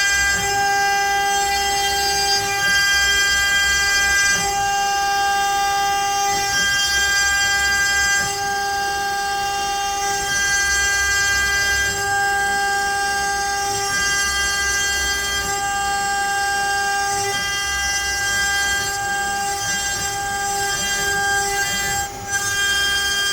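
CNC router spindle whining steadily as the bit mills letters into pine, with a low rumble underneath. The whine wavers in strength every second or two as the cutter's path and load change, and dips briefly near the end.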